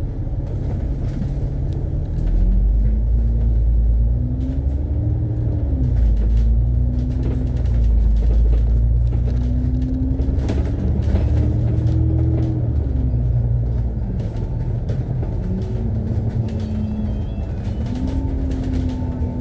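Alexander Dennis Enviro500 MMC double-decker bus heard from on board as it moves through traffic: a steady low rumble of engine and drivetrain. Over it a whine rises and falls again and again as the bus speeds up and eases off.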